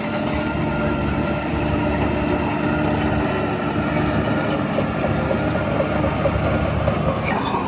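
Heavy diesel engine of earthmoving equipment running steadily, with a slight rise in pitch near the end.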